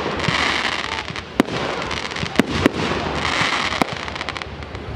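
Aerial fireworks going off: about four sharp bangs over a few seconds, with lighter pops near the end and a steady hiss between the bursts.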